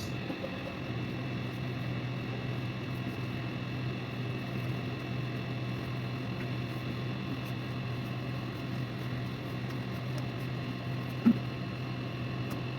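A steady low hum, like a small machine or appliance running, with one short knock near the end.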